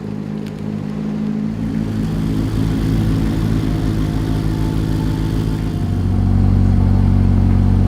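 Corvette ZR1's twin-turbo LT7 V8 running, growing steadily louder, then stepping up to a louder steady drone about six seconds in.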